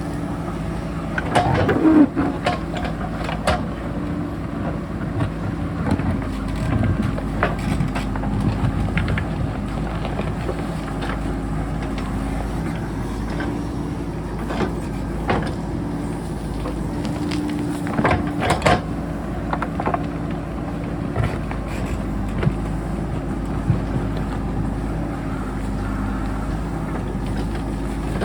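JCB backhoe loader's diesel engine running steadily under work, with intermittent knocks and clanks as the bucket digs into rock, loudest about two seconds in and again around eighteen seconds.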